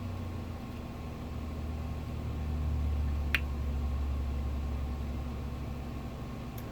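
Steady low mechanical hum, like an appliance or air conditioner running in the room, swelling slightly in the middle, with a faint sharp click about three seconds in and another near the end.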